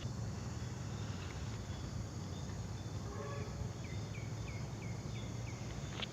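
Steady outdoor background noise with a run of about six short, falling chirps in the second half.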